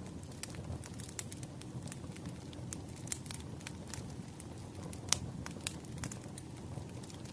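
Burning firewood crackling: irregular sharp pops and snaps over a low, steady rumble of flames, with the loudest pop about five seconds in.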